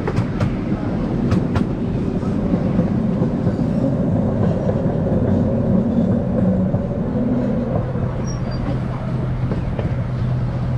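Miniature park train rolling along narrow-gauge track: a steady rumble of the cars' wheels on the rails, with a few sharp clicks in the first couple of seconds. A steady low hum comes in about two-thirds of the way through.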